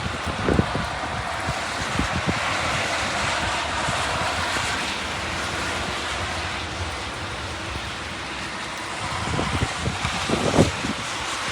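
Heavy rain and wind making a steady hiss, with gusts buffeting the microphone in low thuds near the start and again near the end.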